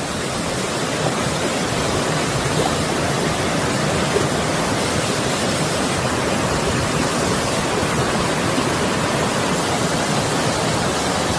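Mountain stream water rushing steadily, a dense even wash of sound that grows slightly louder over the first couple of seconds.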